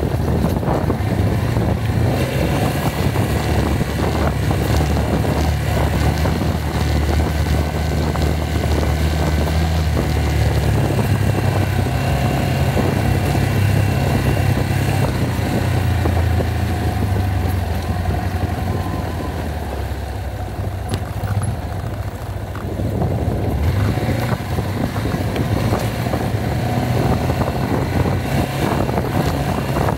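Yamaha XG250 Tricker's air-cooled single-cylinder four-stroke engine running at low, steady speed on a dirt trail ride, with a rushing hiss. The engine eases off for a few seconds about twenty seconds in, then picks up again.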